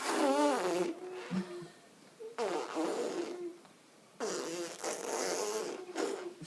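A young child making buzzy, wobbling vocal noises with the lips, raspberry-like, in three bursts of about one to two seconds each.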